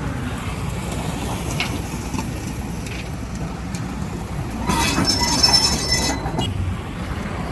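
Heavy diesel machinery running with a steady low rumble, with a loud, high metallic screech lasting about a second and a half past the middle.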